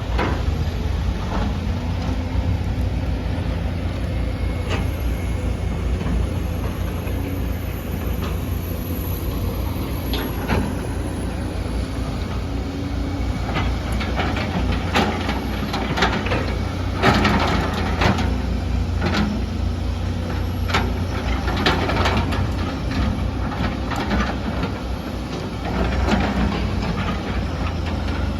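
Excavator's diesel engine running steadily under load, with a run of sharp clanks and knocks from the bucket and rocks in the second half.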